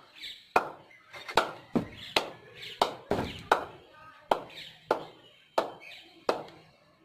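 Old white leather cricket ball knocking repeatedly on the face of a Kashmir willow cricket bat that has been glued back together after breaking in two. About a dozen sharp knocks come at an uneven pace, roughly one every half second to a second. The crisp knock is the sound a well-repaired bat gives, which the repairer calls really good.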